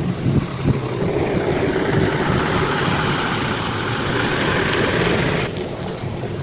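Bulldozer's diesel engine running under load, with a rushing noise over it that stops suddenly about five and a half seconds in.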